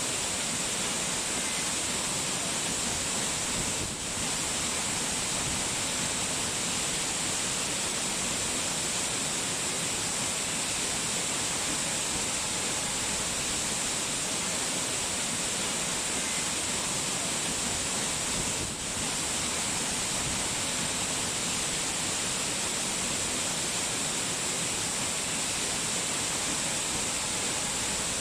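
Steady, dense hiss of falling water, bright and even, that dips briefly twice.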